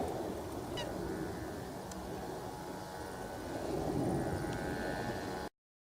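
Distant jet airliner rumble, a steady noisy roar that swells again near the end, with a short falling bird chirp about a second in. The sound cuts off abruptly just before the end.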